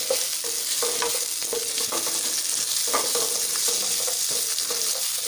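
Vegetables and lentil dumplings (bori) sizzling in hot mustard oil in a kadai, with a spatula stirring and scraping through them in short strokes about twice a second.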